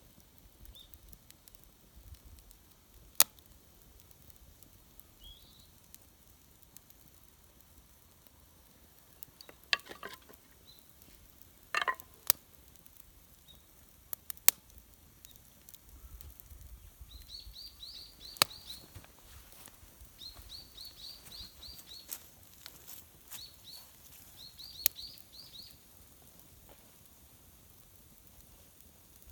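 A small bird chirping in quick runs of short high notes during the second half, among scattered sharp clicks and knocks.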